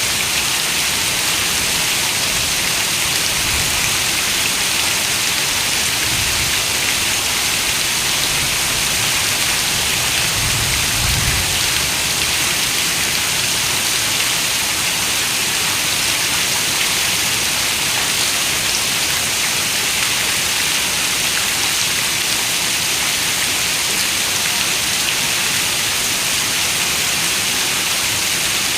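Steady rain on a window, an even, dense hiss with no pauses.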